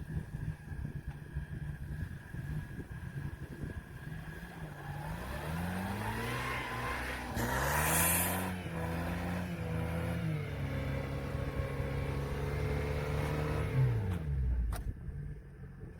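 UAZ off-roader's ZMZ-406 engine revving up from about five seconds in, held at high revs for several seconds, then falling back near the end. A short rush of noise comes at the peak of the revs, and a sharp click follows the drop.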